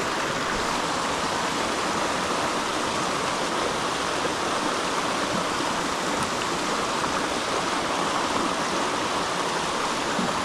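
Creek water running steadily, an even rushing noise that holds at one level throughout.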